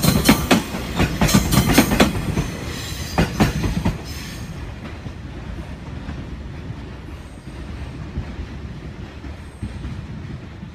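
JR East E001 series TRAIN SUITE Shiki-shima passing, its wheels clacking over rail joints. The clacking stops about four seconds in as the last car goes by, leaving a fading rumble.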